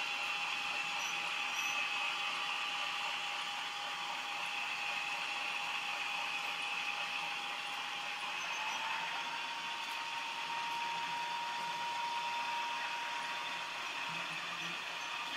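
OO gauge model diesel locomotive running on a DCC sound decoder, its small speaker playing a steady diesel engine sound over the whine of the model's motor. A held tone in the sound steps up slightly in pitch about halfway through.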